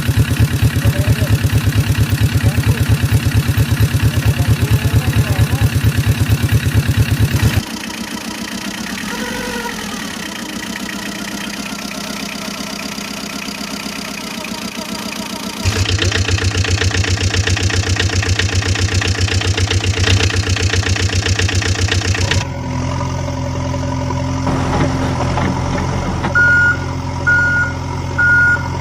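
Heavy-vehicle diesel engines running, with a fast, even firing pulse; the sound changes abruptly three times where clips are cut together. Near the end come three short reversing-alarm beeps.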